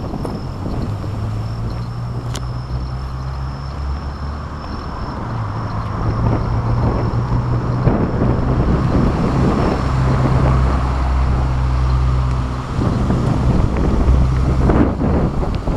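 Strong typhoon wind buffeting the microphone, a continuous low rumble that gusts louder about six seconds in.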